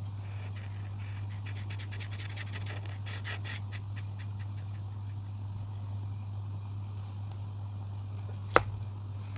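Quick scratchy strokes of a coloring tool on paper, a rapid run of them for a couple of seconds, over a steady low hum. A single sharp click near the end.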